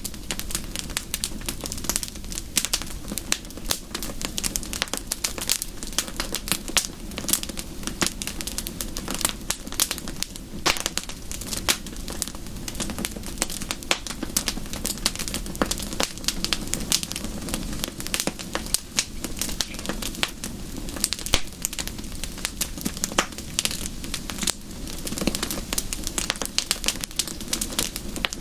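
Wood fire crackling in a fireplace: a dense, continuous run of sharp pops and snaps over a steady low rumble of the flames.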